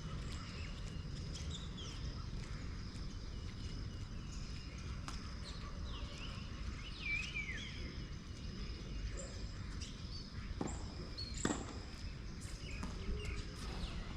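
Open-air background noise: a steady low rumble and a thin, steady high tone, with short bird chirps and two sharp knocks, at about ten and eleven and a half seconds in.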